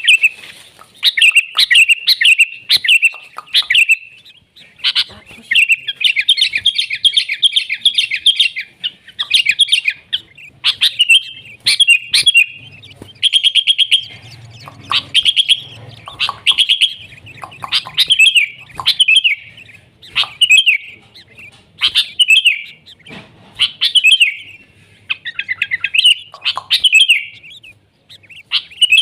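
Sooty-headed bulbul (kutilang) singing busily, with short bubbly whistled phrases about once a second and a few quick rippling trills among them.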